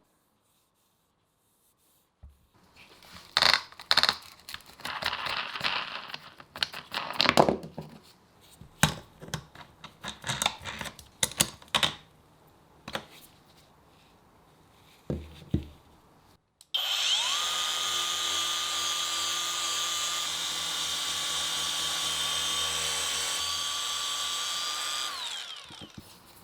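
A handheld electric power tool spins up and runs at a steady speed for about eight seconds with a constant whine, then winds down. Before that come several seconds of scattered knocks and clatter of parts and tools being handled.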